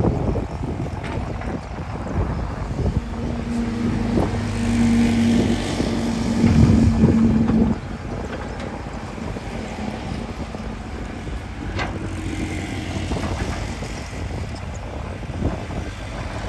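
Diesel engine of a heavy earthmoving machine running under load. Its note rises and is loudest for a few seconds in the first half, then drops back to a lower rumble about halfway through.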